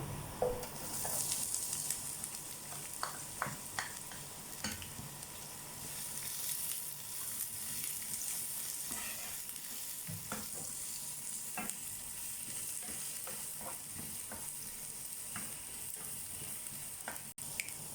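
Chopped onion and garlic sizzling in hot oil in a pan, stirred with a spatula that knocks and scrapes against the pan now and then.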